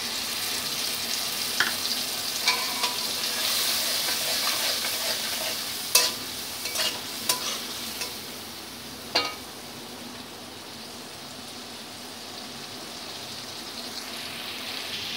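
Watery spice paste of ground cumin, coriander, turmeric and chilli sizzling as it hits hot oil and fried potato cubes in a metal kadai, stirred with a metal spatula that clinks against the pan several times. The sizzling is loudest in the first half and dies down after about eight seconds as the liquid settles.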